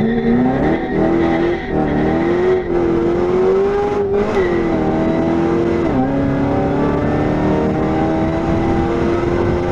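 Supercharged LS3 V8 of a 2014 Chevy SS at full throttle from a standing start, heard from inside the cabin. Its pitch climbs steeply off the launch and then rises through the gears, dropping at upshifts about four and six seconds in.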